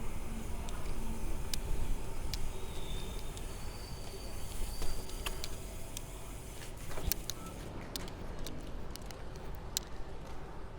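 Wind rushing over the microphone and road noise from riding a fixed-gear bike, with scattered sharp clicks and ticks.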